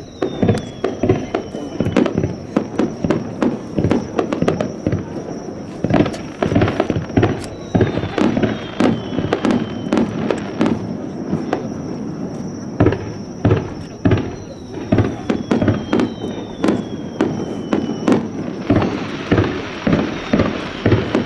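Aerial fireworks finale barrage: a rapid, irregular run of shell bursts and booms, with several falling whistles. A dense crackling fills the last few seconds.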